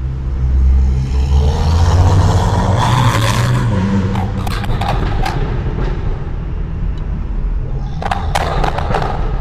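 BMW 335i's N55 turbocharged inline-six heard through a microphone at the exhaust, pulling under acceleration with its pitch rising over the first few seconds while being short-shifted. A few sharp crackles come around halfway and again near the end.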